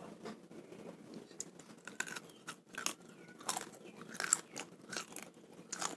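Close-up mouth sounds of biting into and chewing uncooked salted dried snakehead fish: a string of short, irregular crackles and clicks.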